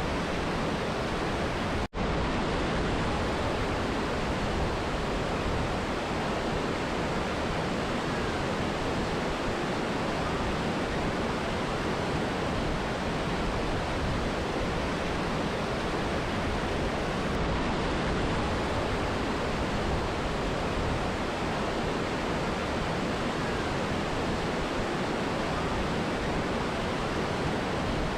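Steady rushing of a mountain river and waterfall, cutting out for an instant about two seconds in.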